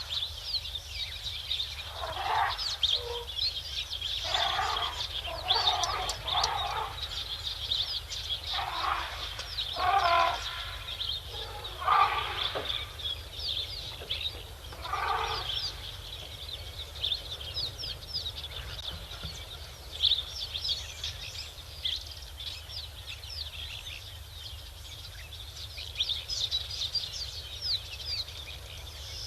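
A run of about eight short, harsh animal calls, each under a second, in the first half, over a constant high-pitched chirping chorus.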